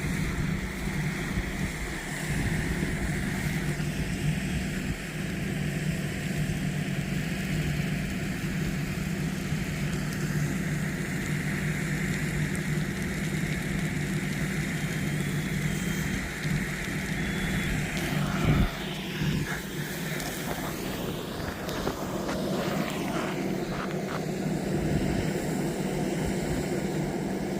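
A steady engine drone over a hiss of wind, with a single sharp knock about eighteen seconds in.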